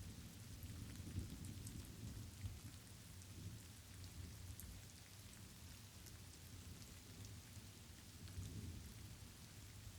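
Light rain falling steadily, with a low rumble of thunder underneath that swells briefly about a second in and again near the end.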